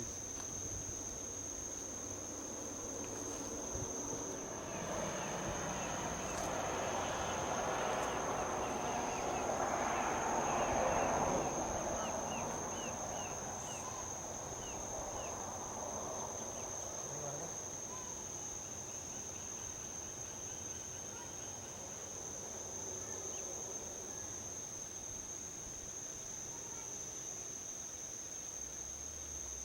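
Steady, high-pitched insect chorus, with a vehicle passing on a highway as a broad rush of noise that swells to a peak about ten seconds in and fades away. A quick run of short chirps comes just after the peak.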